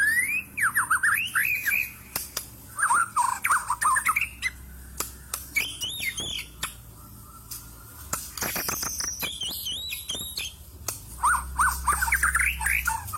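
White-rumped shama (murai batu) in full, vigorous song: several phrases of rapid rising and falling whistled notes separated by short pauses, with a stretch of harsh, clicking chatter about halfway through.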